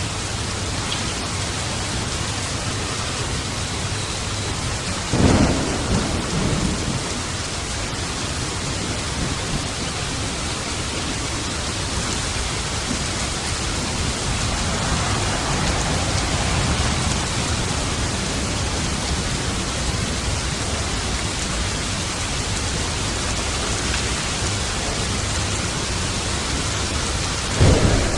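Steady rain with thunder: a sharp thunderclap about five seconds in that rolls into a rumble, and another sudden clap near the end.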